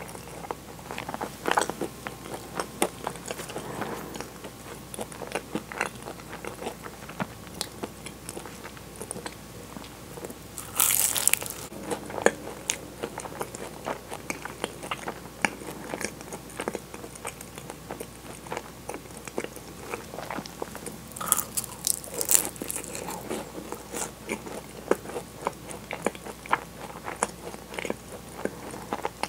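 Close-up eating of a flaky-pastry custard egg tart: crisp crunching bites and chewing, a steady run of small pastry crackles. Two louder crunches stand out, about eleven seconds in and again about twenty-two seconds in.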